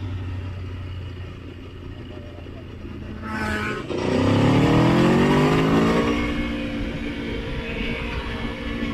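Motorcycle engine accelerating on the road: a steady low note, a short rise about three seconds in, then the throttle opens and the pitch climbs for about two seconds, the loudest part, before settling to a steady higher note.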